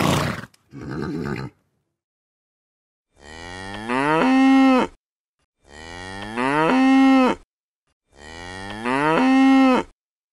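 A cow mooing three times, three identical moos of about two seconds each that rise in pitch and then hold steady. Before them, the loud tail end of a horse's whinny with a sharp snort.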